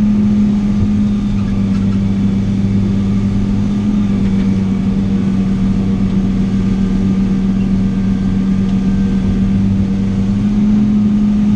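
Heavy diesel engine of logging equipment running steadily, a constant low hum heard from inside the cab.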